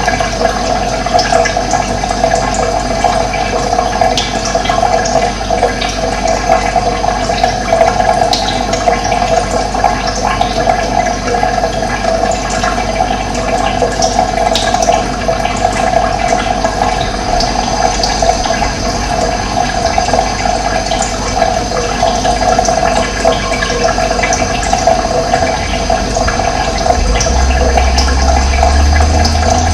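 Running water rushing steadily, with a few brief bird chirps above it. A low rumble joins near the end.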